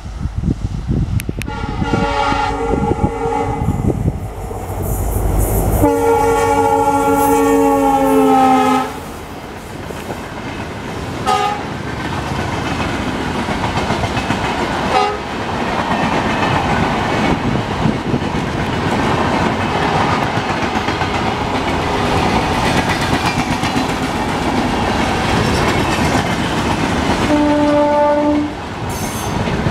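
A passing Indian Railways passenger train: the locomotive horn gives a short blast and then a long blast of about three seconds, with two brief toots after it. The coaches then run past with a steady clickety-clack of wheels over rail joints. Near the end a second, lower horn sounds for about a second.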